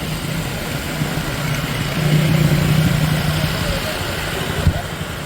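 A vehicle engine running steadily while on the move, getting a little louder about two seconds in.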